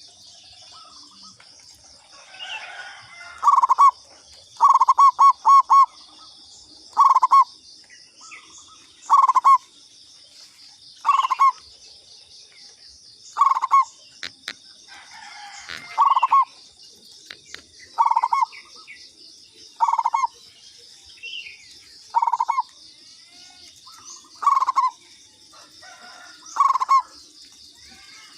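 Zebra dove (perkutut) singing its cooing song, a short phrase repeated about every two seconds, over a steady high insect buzz.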